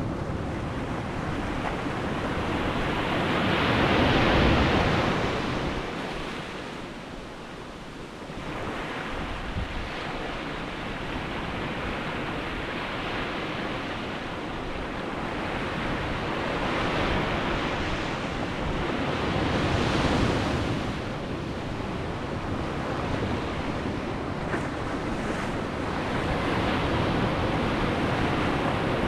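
Sea waves breaking and washing on the shore, the surf swelling and easing every several seconds, loudest about four seconds in, around twenty seconds and again near the end. Wind buffets the microphone.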